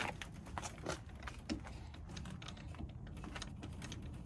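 Irregular light clicks and taps of hard plastic being handled, two or three a second, over a steady low background rumble.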